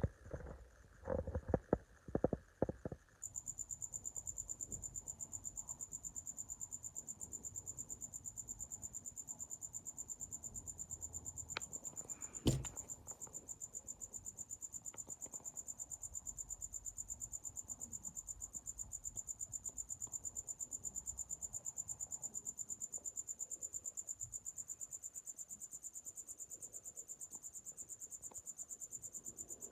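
A cricket chirping in a fast, even, high-pitched trill that starts about three seconds in and keeps going. A few knocks and handling sounds come before it, and there is one sharp knock near the middle.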